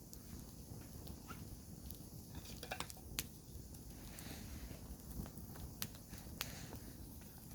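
Wood campfire burning with a low steady rumble and sparse sharp crackles and pops, the strongest about three seconds in and a couple more near the end.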